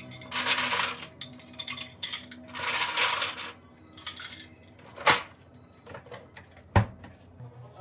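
Dishes and utensils clinking and scraping, with two sharp knocks in the second half.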